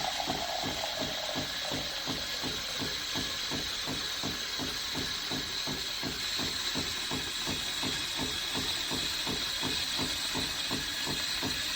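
Melitta Latticia fully automatic coffee machine running: a steady hiss with a rapid, even pulsing underneath, typical of the machine dispensing coffee or frothing milk.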